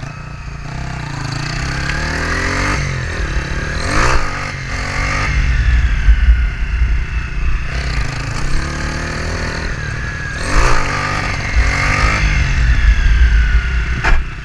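Small single-cylinder motorcycle engine revving up and down several times while being ridden through wheelies, with wind rushing over the microphone.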